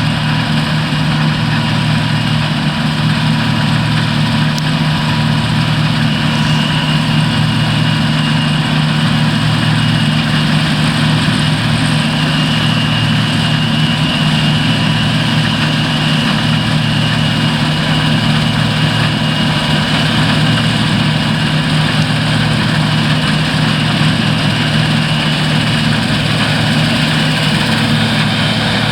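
Diesel engines of a John Deere combine harvester and tractor running steadily at working speed, a deep engine hum with a constant high whine over it.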